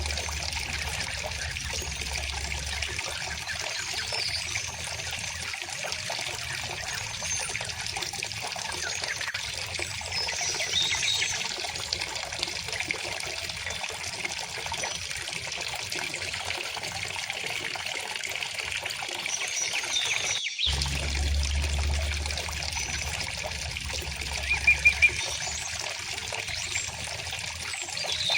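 Shallow river or stream trickling and burbling steadily, with birds chirping now and then, including a quick burst of three loud chirps near the end. The sound drops out for an instant about two-thirds of the way through.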